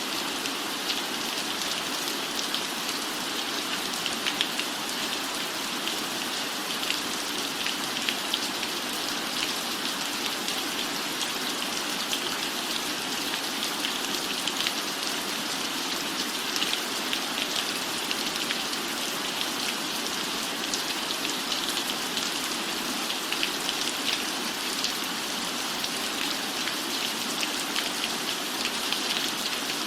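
Steady rain falling, a constant hiss dense with small pattering drop ticks.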